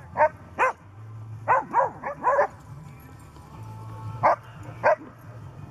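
Dogs barking during play: about eight short barks, several in quick runs of two or three in the first half and two more near the end.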